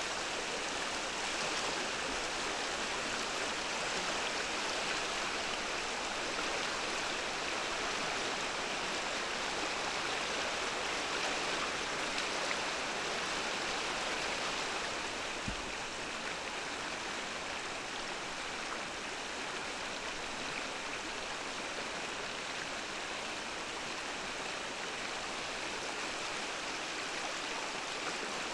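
Mountain stream flowing, a steady rush of water. A brief low bump about halfway through, after which the rush is slightly quieter.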